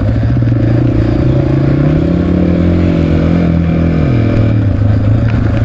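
Honda XR650R's single-cylinder four-stroke engine running while riding, its pitch rising about two seconds in, holding, then dropping back a little after four seconds.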